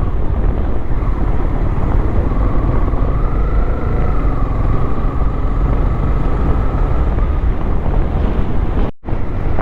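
Honda motorcycle being ridden at road speed: a steady engine drone over a heavy low rumble, with the sound cutting out for an instant near the end.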